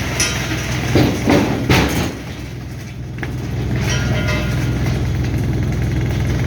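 Heavy diesel machinery running steadily with a low hum, with several sharp knocks and clatters in the first two seconds, as wood is handled at the chipper.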